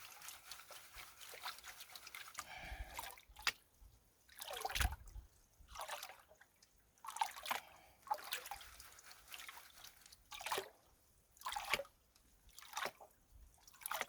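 Water sloshing and splashing in a gold pan as it is swirled and dipped to wash out the lighter gravel, in repeated surges about once a second.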